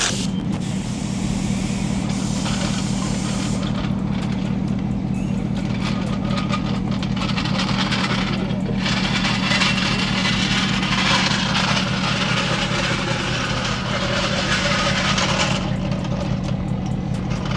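A vehicle engine running steadily at a constant speed, with several seconds-long bursts of hissing over it.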